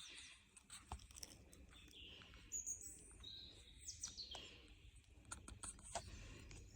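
Faint birdsong: a few short chirping and whistled phrases, with scattered small clicks.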